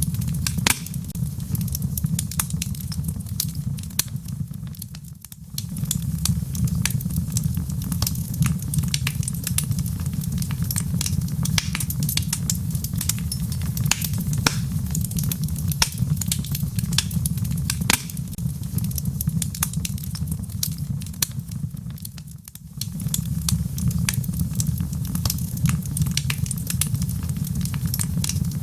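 Wood fire in a fireplace: logs crackling and popping in quick, irregular sharp clicks over a steady low rumble of flame. The sound dips briefly twice, about five seconds in and again near twenty-two seconds, then returns.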